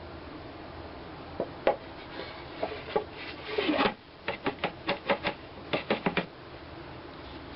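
A series of sharp wooden knocks and a short scrape on a rough-turned wooden bowl blank at the lathe, ending in two quick runs of clacks, over a steady low hum.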